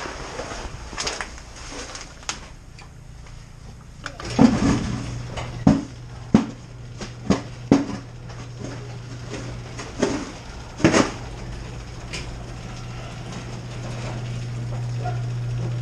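A series of sharp knocks and clatters, about seven over several seconds, over a steady low hum. The hum starts about four seconds in and grows louder near the end.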